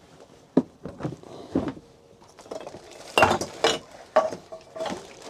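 Cookware being handled: a pan and utensils clinking and knocking, about six separate sharp knocks, the loudest a little after three seconds in.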